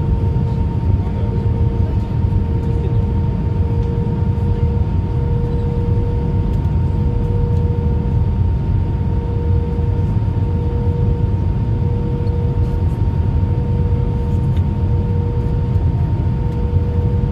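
Airbus A319 cabin noise heard from a window seat: a steady low rumble of the CFM56 engines and airflow, with a constant mid-pitched hum and a fainter tone above it.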